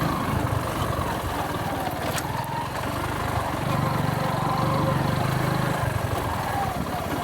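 Motorcycle engine running steadily, its note shifting slightly every few seconds.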